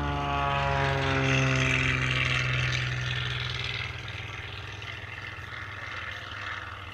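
Propeller airplane flying past, its engine and propeller note sliding down in pitch as it passes, loudest about a second or two in, then fading away.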